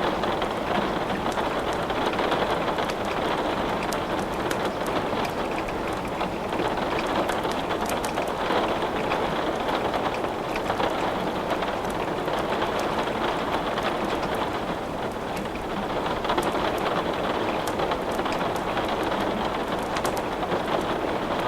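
Steady rain with scattered sharp crackles and pops from burning wood in a fireplace.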